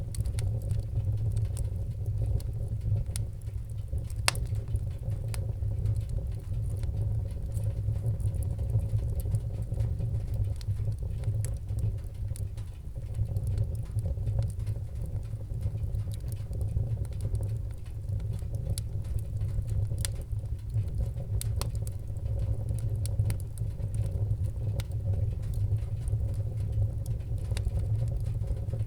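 Wood fire in a fireplace crackling, with a steady low rumble of the flames under many small irregular crackles and a few sharp pops, the loudest about four seconds in.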